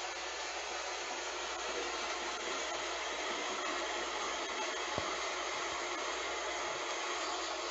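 Heavy rain falling in a steady hiss, with one short sharp tick about five seconds in.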